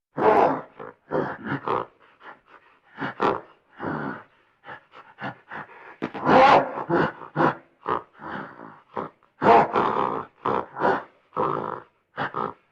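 A large wild animal's call: a string of short, irregular grunts and brief roars with gaps of silence between them.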